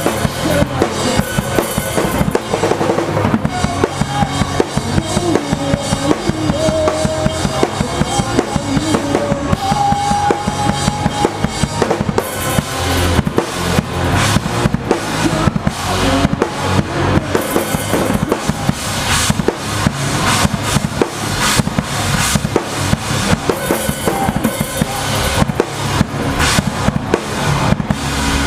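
Pop-punk drum kit played hard through a live song, heard close up from the kit: a driving beat of kick drum, snare and cymbals, with the rest of the band behind it. A held melodic line sounds over the beat in the first third.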